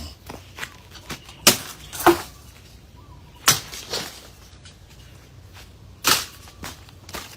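A series of sharp knocks and clacks, about five loud ones at uneven intervals with lighter clicks between, as of hand tools striking hard parts during an air-conditioner repair.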